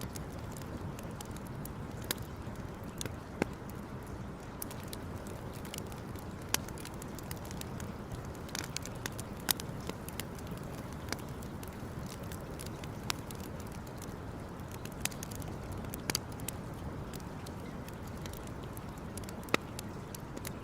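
Campfire crackling: sharp, irregular pops and snaps every second or two over a steady low rush.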